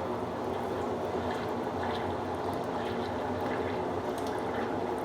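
Consul Supercargo 8 kg (CWL08C) top-loading washing machine draining and spinning, going into its last spin ramp: a steady motor hum with water rushing out through the drain.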